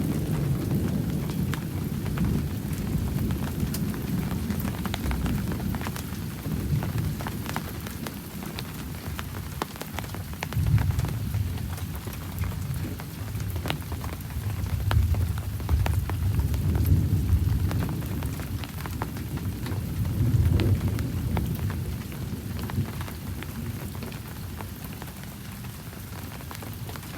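Thunder rumbling in several long, low rolls over steady rain, with close raindrops ticking sharply throughout. The rumbles swell most strongly in the middle and die away near the end.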